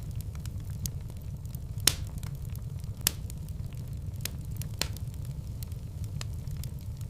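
Fireplace fire crackling, with irregular sharp pops over a steady low rumble; the loudest pops come about two and three seconds in.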